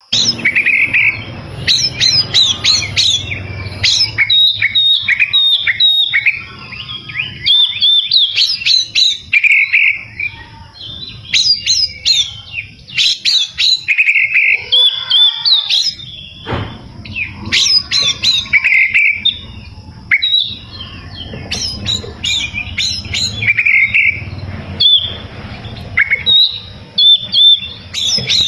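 Oriental magpie-robin (kacer) singing vigorously: rapid phrases of whistled notes, chirps and sweeps, repeated again and again with short pauses between them.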